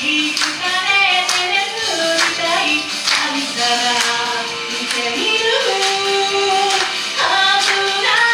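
Japanese idol pop song: high voices sing held melody notes over a steady beat of about two hits a second.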